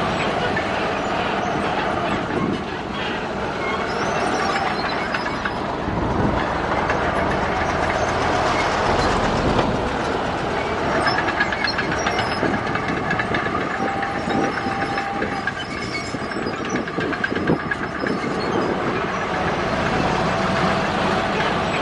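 Bulldozer working, its diesel engine running with a steady metallic clatter and intermittent squeals from the steel crawler tracks.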